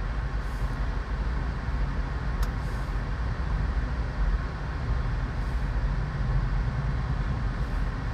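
Steady low rumble of a car engine running, heavier in the middle stretch, with one sharp click about two and a half seconds in.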